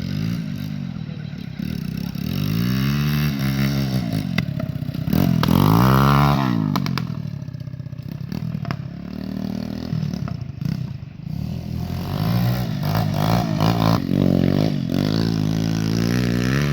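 Pit bike engine revving, its pitch rising and falling several times, highest about six seconds in.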